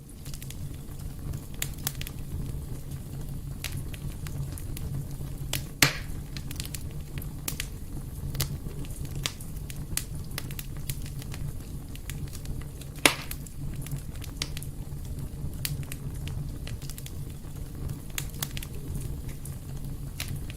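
Wood fire crackling steadily in a fireplace over a low, even rumble, with two sharp, louder pops, about six seconds in and about thirteen seconds in.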